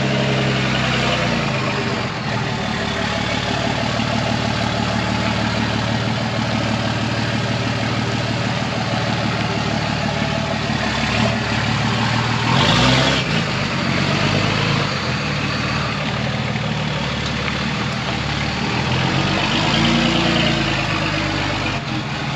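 Truck engine running steadily at idle, with a brief louder swell about halfway through.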